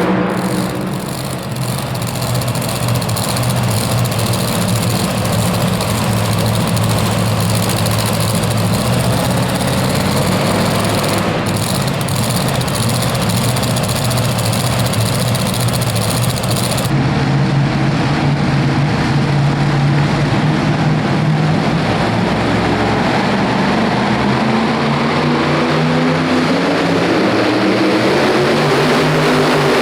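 Super modified two-wheel-drive pulling truck's engine running loud and steady, its note wavering up and down over the last few seconds.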